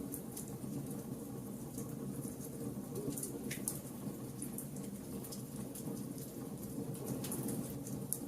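Wood fire burning: a steady low rush of flames with irregular sharp crackles and pops of burning wood.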